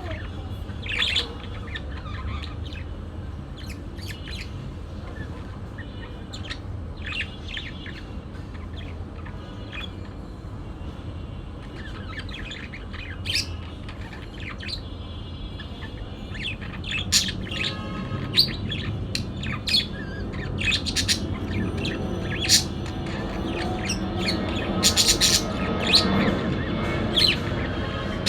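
Parakeet chirping in many short, sharp calls that come thicker and louder in the second half, with the odd squawk, over a low steady hum.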